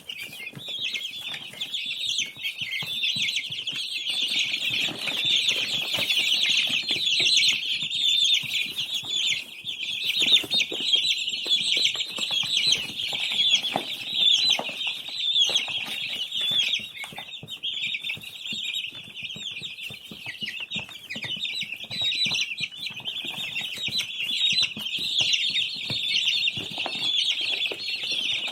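A brood of baby chicks peeping continuously: many high, short chirps overlapping in a dense chorus, with soft taps and rustles underneath.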